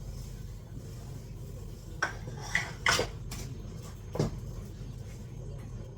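Pots and cooking utensils clinking and clattering in a kitchen: a few sharp knocks, the loudest about halfway through, over a steady low hum.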